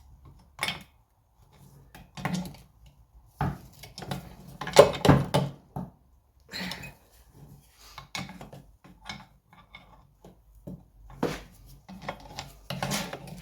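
Irregular metal clinks, taps and knocks of hand tools and engine parts as the magneto is worked off a small 50cc two-stroke engine, the loudest knock about five seconds in.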